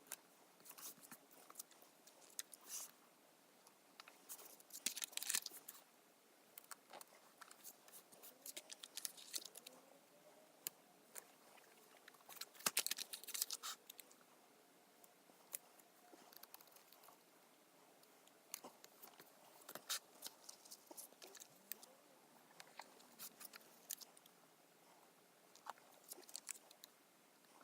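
Faint scattered clicks, taps and crinkles of paper sticker sheets being handled, with stickers peeled off and pressed into a paper planner; a few short louder rustling spells.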